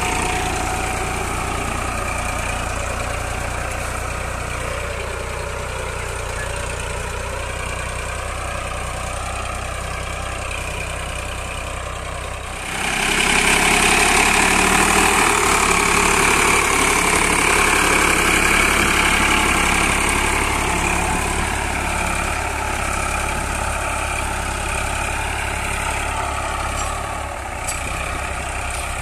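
Eicher 551 tractor's three-cylinder diesel engine running steadily while pulling a mounted plough through the soil. The sound steps suddenly louder and brighter a little before halfway, then holds steady.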